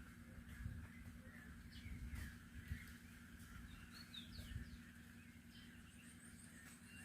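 Faint chirps of small songbirds: a few short, high calls scattered over a steady background din.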